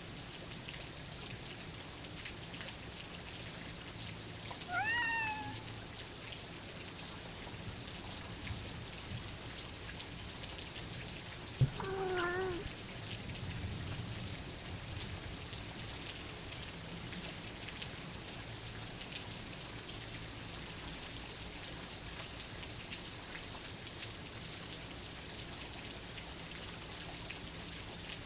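Steady rain pattering, with a cat meowing twice: a short rising meow about five seconds in, and a lower meow about twelve seconds in, just after a sharp click.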